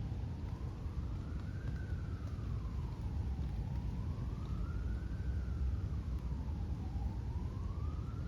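Siren wailing slowly, its pitch rising and falling about once every three and a half seconds, over a steady low rumble.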